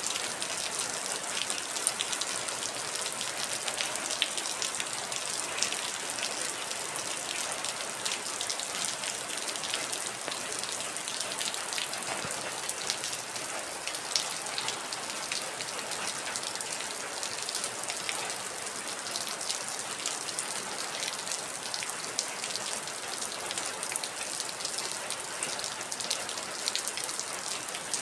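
Heavy rain falling steadily, an even hiss of countless drops with many small sharp drop ticks pattering on a surface.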